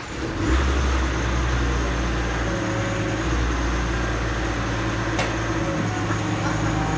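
Wheel loader's diesel engine running steadily with a deep hum, coming up in level within the first second. A single sharp click sounds about five seconds in.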